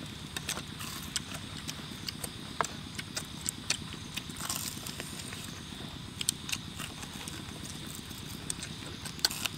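Eating sounds from fried pork ribs: irregular crunches, lip smacks and clicks of chewing, over a steady low hum.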